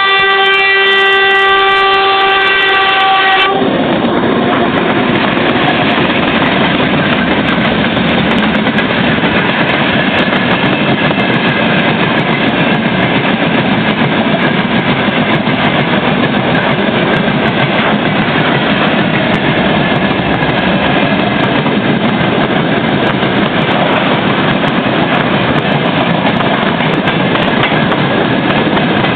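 2TE25Km diesel locomotive's horn sounding one steady note, a greeting to the trackside observer, cutting off sharply about three and a half seconds in. It gives way to the loud, continuous noise of the freight train running past.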